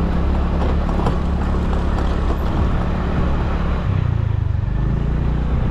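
Motor scooter engine running while riding, with wind noise over the microphone; the engine note shifts about four seconds in.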